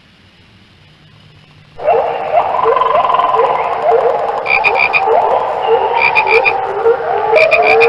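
A chorus of many frogs calling together starts suddenly about two seconds in. Short, rising croaks overlap several times a second, and a higher-pitched call of three or four quick notes comes in about every second and a half.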